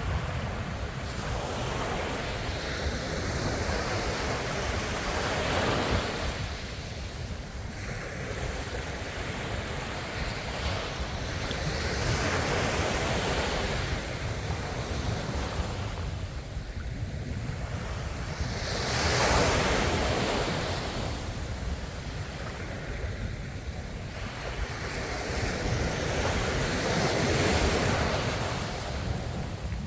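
Ocean waves breaking and washing in, in slow surges about every six to seven seconds, over a steady low rumble.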